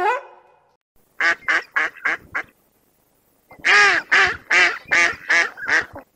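An animal calling in two quick runs of short nasal calls, five and then six, about four a second, with a pause of about a second between the runs.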